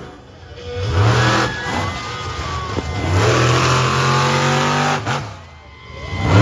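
Monster truck engine revving hard: a short rev about a second in, then a longer rev held high for about two seconds before it drops off, and another rev starting at the very end.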